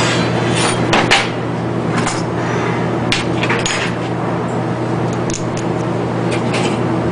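Scattered metallic clinks and knocks at an irregular pace over a steady low machine hum.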